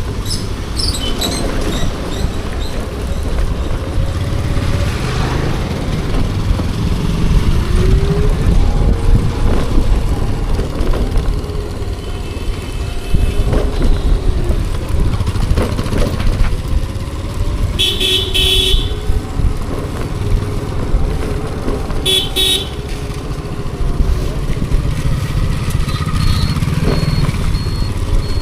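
Wind buffeting and road rumble from riding a Bajaj Chetak electric scooter in traffic, with other vehicles' engines rising and falling past. A horn honks about two-thirds of the way through for about a second, and again more briefly a few seconds later.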